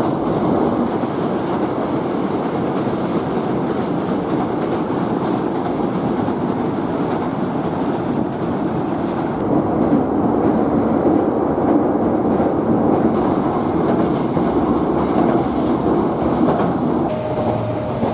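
Hankyu 8000-series electric train running at speed over a steel river bridge: steady wheel-on-rail running noise with some clickety-clack.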